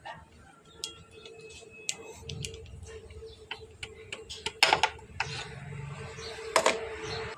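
Hand tools clicking and tapping on metal motorcycle engine parts during piston work, with two louder knocks in the second half over a faint steady hum.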